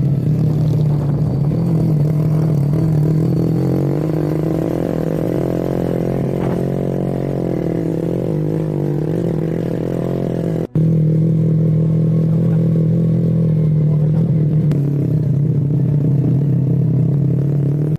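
Motorcycle engine running at a fairly steady speed while riding, with a brief dropout about eleven seconds in before it carries on.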